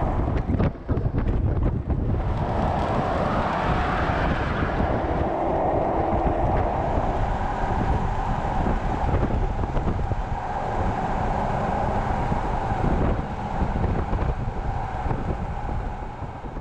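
An off-road vehicle's engine running steadily under way, with wind buffeting the microphone.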